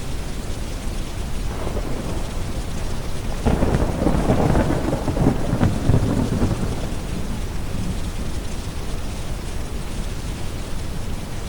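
A peal of thunder breaks suddenly about a third of the way in, crackling and rumbling for a few seconds before rolling away. Underneath it is a steady bed of rain and deep brown noise.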